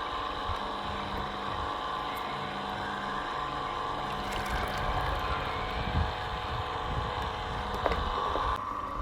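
Electric juicer motor running steadily while it juices fruit and vegetables, a constant whirring hum.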